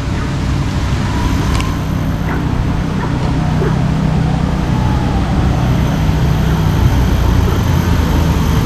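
Steady low rumbling rush of water pouring from an outlet, with a faint hum under it.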